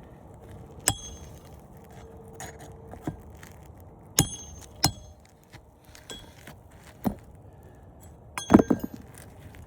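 Hand nailing of roofing nails into asphalt shingles: single sharp metallic strikes with a short ring, spaced one to two seconds apart, then a quick run of several hits near the end.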